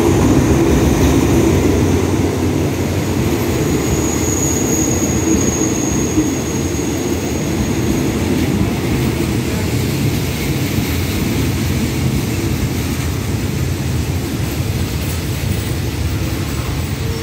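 Alsthom diesel-electric locomotive 4230 passing close with its engine running, then its passenger coaches rolling past as the train draws in to stop. A steady low rumble, loudest as the locomotive goes by in the first seconds, with a thin high squeal for a few seconds about four seconds in.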